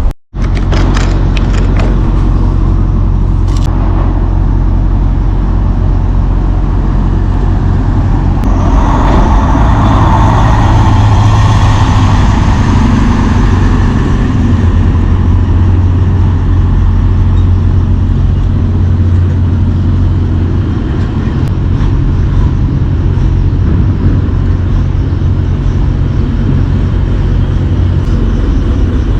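Semi truck's diesel engine running with a steady low hum, growing louder and brighter for a few seconds about nine seconds in before settling back.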